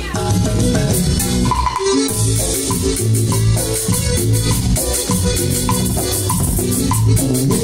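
Live band playing an instrumental passage of a Latin dance song, with drums and pitched melody notes over a steady beat.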